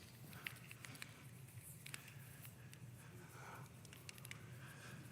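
Near silence with faint scattered clicks as a Shashibo magnetic puzzle cube is folded and turned by hand.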